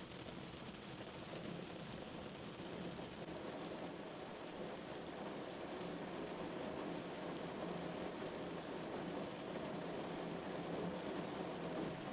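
Rain falling steadily on a car, an even patter with scattered individual drops, growing a little louder toward the end.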